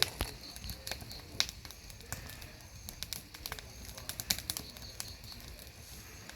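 Campfire burning wood, crackling with irregular sharp pops, a few louder than the rest, over a low steady hiss.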